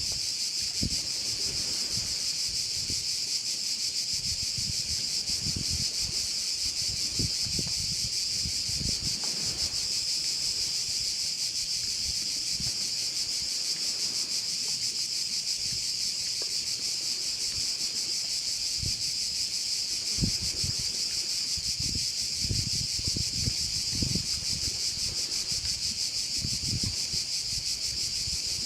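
A dense, steady chorus of crickets shrilling without a break, with irregular low rumbles of wind on the microphone.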